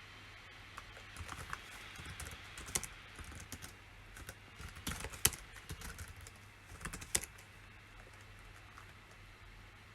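Typing on a computer keyboard: irregular runs of keystrokes with a few harder strikes, dying away about seven seconds in.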